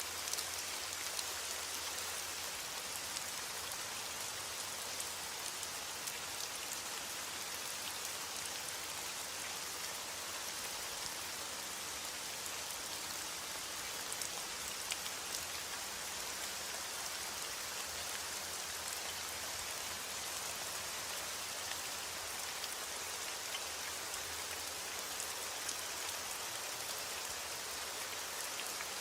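Steady rain falling on a surface, a constant hiss with many small drop ticks.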